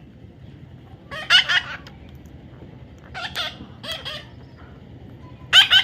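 Baby parrot calling in four short, harsh squawks, the loudest about a second in and one just before the end.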